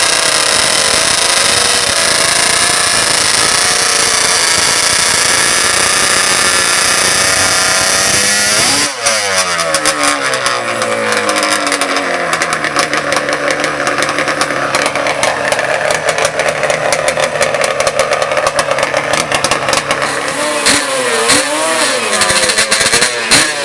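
Racing ATV engines running at full throttle, high and steady, then dropping sharply in pitch about nine seconds in. Near the end the engines rev up and down in short blips.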